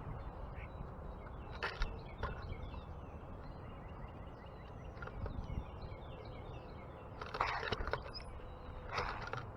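Wild birds chirping and twittering in many short, faint calls. There are a few brief rustling bursts, one about two seconds in and two near the end, over a steady low background rumble.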